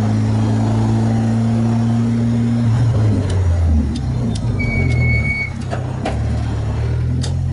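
Renault Clio 2 RS race car's freshly rebuilt engine running at a steady pitch, then its note drops and wavers about three seconds in. A brief high whistle and a few sharp clicks come partway through.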